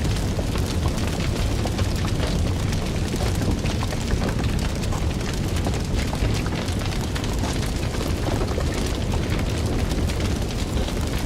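Fire burning: a steady low rumble with frequent quick crackles and pops scattered throughout.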